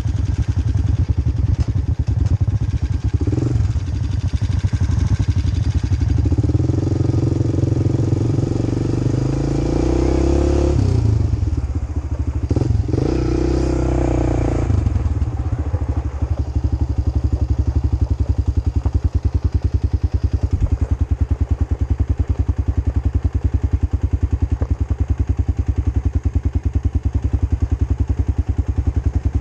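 Quad bike engine running while riding, with the engine revving harder for several seconds in the middle before settling back to a steady pace.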